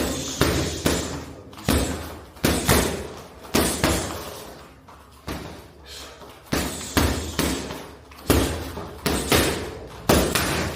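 A run of heavy thuds and slams at an irregular pace, roughly one every half second to a second, each ringing on briefly before the next.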